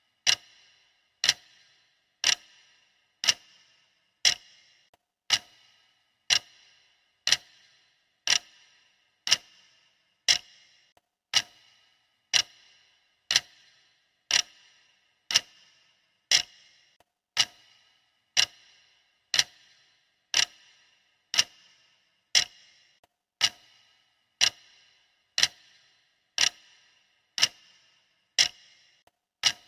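Steady clock ticking, about one sharp tick a second, each tick with a brief high ring.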